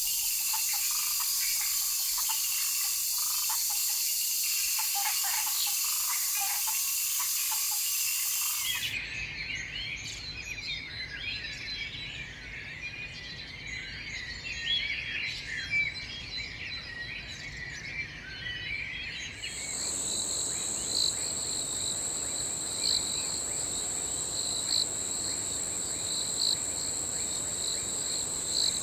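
Tropical forest ambience with an abrupt change of scene twice. First a dense, high insect chorus, then a busy mix of bird calls, then a steady insect trill with a short chirp repeating about every two seconds.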